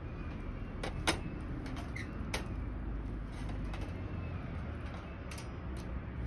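A few scattered sharp snaps or clicks over a steady low rumble, with one loud snap about a second in.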